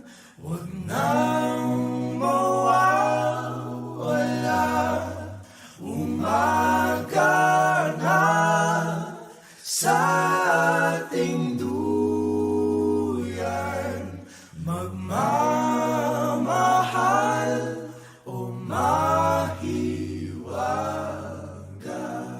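Background music: a cappella singing, a sung melody in phrases over held low bass notes that change in steps.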